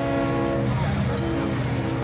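A train horn sounds, a held chord that cuts off about a third of a second in. Steadier tones and a constant low rumble carry on after it.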